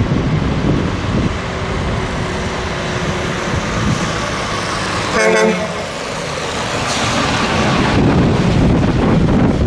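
Trucks driving by with a heavy, steady rumble; just past the middle, a truck horn gives one short toot of about half a second.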